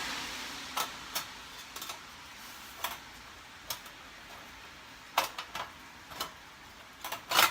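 Sheet-metal panels of a small folding wood stove clicking and clinking as they are fitted into their grooves during assembly: irregular sharp clicks, the loudest a quick pair near the end.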